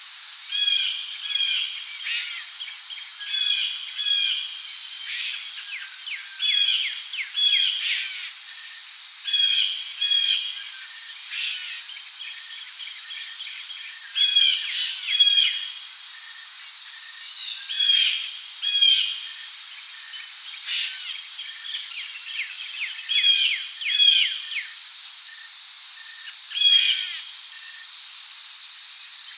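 Tropical rainforest ambience: a steady, high insect drone of crickets, with short bird calls repeating every second or two, often in quick pairs.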